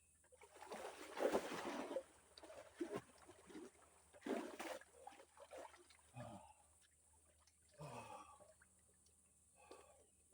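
Water splashing as a swimmer moves through it. The splashes are loudest about a second in and again around four seconds, with quieter splashes and sloshing after that.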